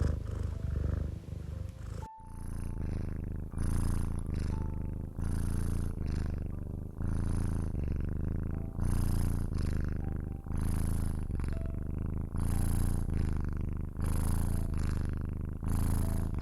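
Domestic cat purring close up, a steady low buzz that swells and eases with each breath, about once every second and a half, with a brief break about two seconds in.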